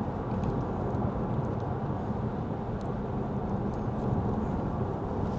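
Steady low rumble of road and tyre noise heard inside a Lexus ES 350 F Sport's cabin while driving on a wet road.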